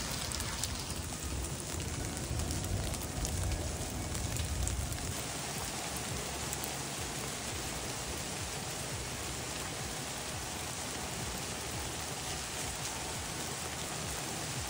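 Steady rain falling, an even hiss throughout, with some low rumble in the first few seconds.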